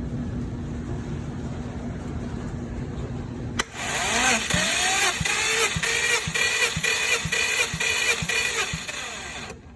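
Subaru 3.0-litre flat-six engine turned over on its starter motor for a compression test. The cranking starts sharply about three and a half seconds in, rising in pitch as it spins up, and runs for about six seconds with a regular beat about twice a second before stopping. Before it there is a steady hum.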